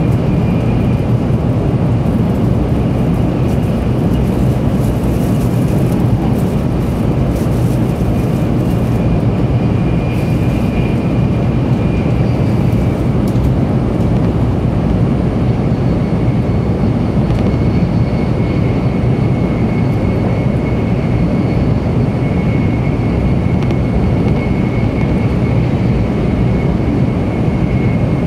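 Steady rumble of a 700 series Shinkansen running at speed, heard from inside the passenger car, with a faint high whine that fades and returns.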